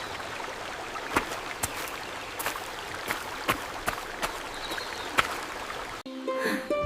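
Trickling water with irregular sharp drips, about one or two a second. It cuts off about six seconds in, when a plucked-string tune begins.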